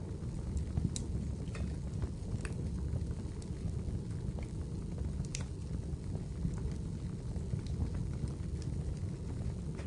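Wood fire in a fireplace crackling, with a steady low rumble of flames and scattered sharp pops and snaps; the loudest pop is about five seconds in.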